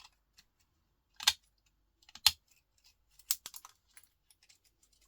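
Hand cutters snapping through small electronic components to free the copper inside: three sharp snaps about a second apart, with lighter ticks and clicks of small parts between them.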